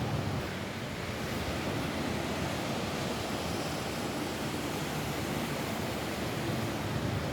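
Steady rain falling on a roof: an even, unbroken hiss with a low rumble beneath it.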